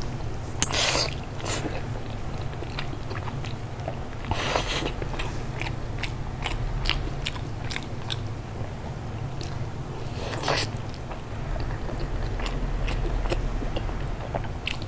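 Close-up chewing and biting of soft, sticky braised deboned pig's trotter: a run of short wet mouth clicks with a few louder ones, over a steady low hum.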